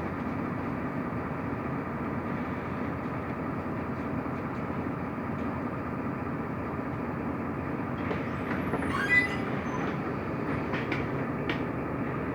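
Mercedes-Benz Türk O345 Conecto LF city bus driving, heard from inside the passenger cabin: a steady low rumble of engine and road. A brief high-pitched squeak comes a little past the middle, with a few light clicks near the end.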